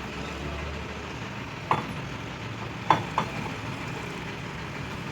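Lathe running steadily while it turns a truck axle, a continuous mechanical drone, with three sharp knocks about a second and a half in, near three seconds, and just after.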